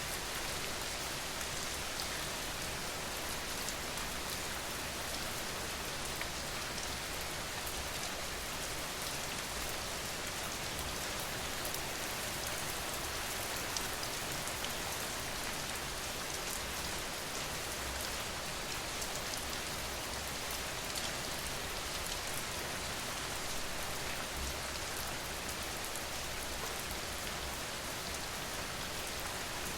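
Steady rain falling, with fine drop patter on top of a continuous hiss and a faint low rumble.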